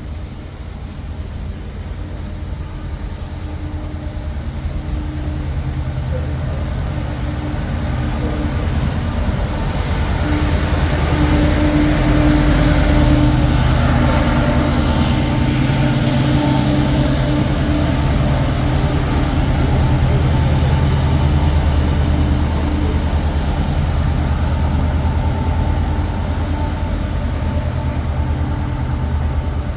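Taiwan Railway train running close by, growing louder over the first twelve seconds or so and then staying loud, with a low rumble and a steady hum.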